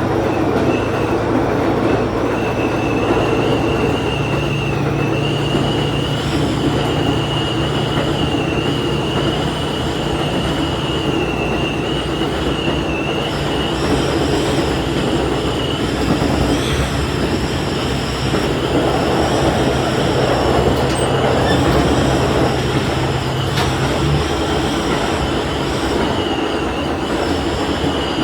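Diesel railcar under way, with a steady engine drone over wheel and track noise and a high steady whine. The engine note rises about four seconds in and drops away near the end.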